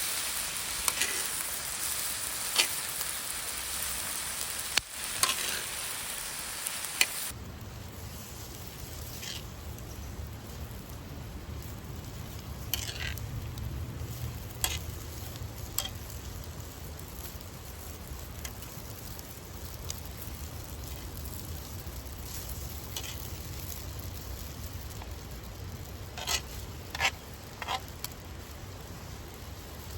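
Food sizzling as it fries in a pan, with a few sharp clicks. About seven seconds in, the sound cuts to a low steady rumble with scattered sharp clicks and crackles.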